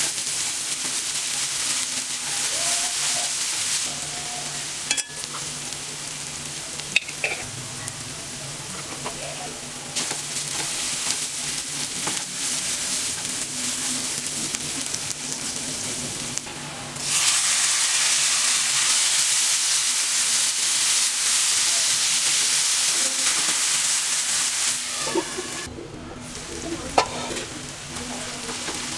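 Onion masala sizzling in hot oil in a black iron pan, stirred with a wooden spatula that knocks against the pan a few times. The sizzle turns louder and brighter just past halfway and dips briefly near the end.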